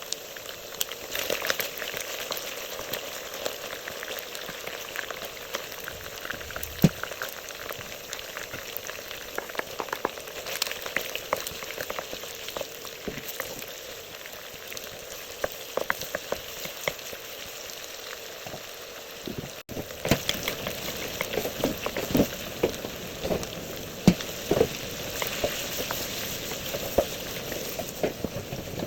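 Chicken frying in hot oil: a steady sizzle with frequent sharp pops and crackles, broken by a momentary dropout about two-thirds of the way through.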